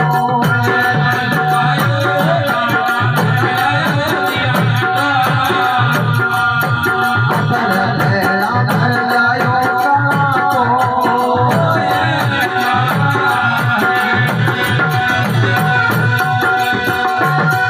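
Instrumental music from a live folk devotional bhajan: a held melodic line over a steady hand-drum beat, with jingling percussion keeping time.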